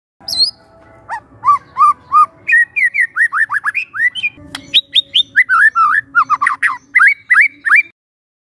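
A young wild white-rumped shama singing a fast run of clear, sliding whistled notes, some phrases repeated two or three times. The song stops shortly before the end.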